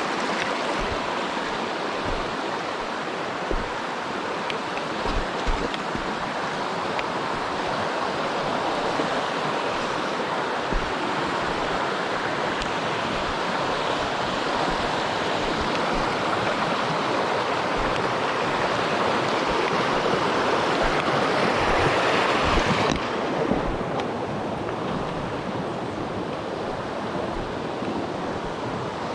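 Steady rush of a mountain stream, swelling to its loudest a little past two-thirds in, then suddenly duller and quieter.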